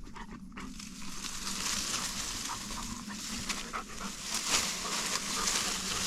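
A dog panting as it runs, heard over a steady hiss and a faint low hum.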